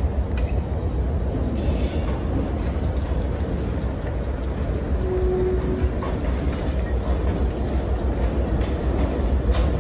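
Diesel locomotive and train moving on the rails: a steady low rumble with wheel and rail noise, and a short steady tone about halfway through.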